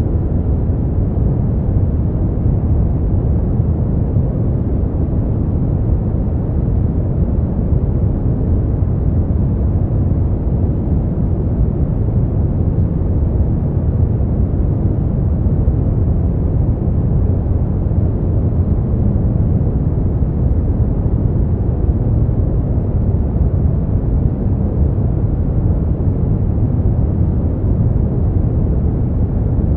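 Steady sleep-noise track: an even, unbroken hiss that is deep and muffled, with most of its weight in the bass and almost no treble.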